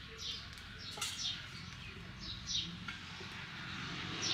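Small birds chirping: short high chirps that fall in pitch, often in pairs, repeating every second or so over a low steady rumble.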